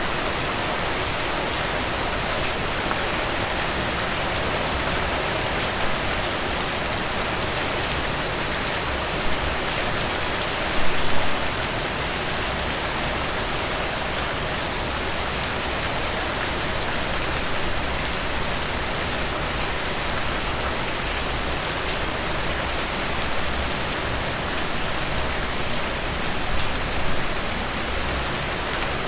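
Heavy rain falling steadily: a dense, even hiss with many small drop hits. There are brief louder splashes about eleven seconds in and again near the end.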